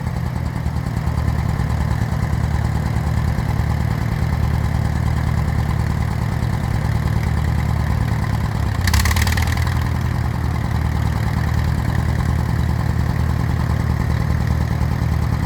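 Allis-Chalmers farm tractor engine idling steadily, with a brief hissing rush about nine seconds in.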